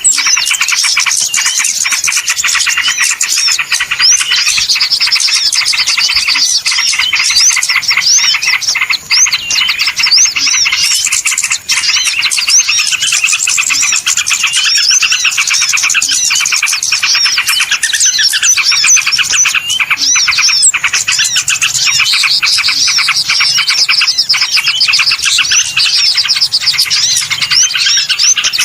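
Busy chorus of many small songbirds chirping and trilling rapidly without a break, the high calls overlapping densely. This is a lure call used to draw small birds to a trap.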